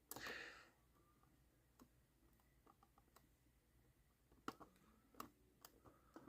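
Near silence, broken by a brief faint rustle at the start and a few light, scattered clicks and taps of small metal roofing pieces being handled and set onto a model roof.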